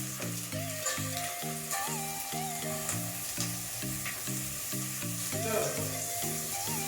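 Onion, chilli and ginger-garlic masala sizzling in hot oil in a pan, stirred, with tomatoes just going in. Soft background music with a steady rhythmic pattern plays underneath.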